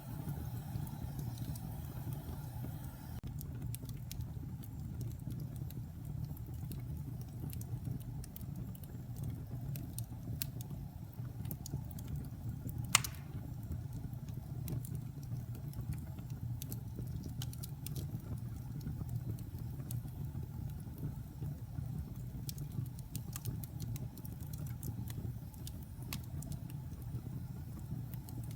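Wood fire burning in a fireplace: a steady low rumble of flames with scattered crackles of burning wood, and one loud pop about halfway through.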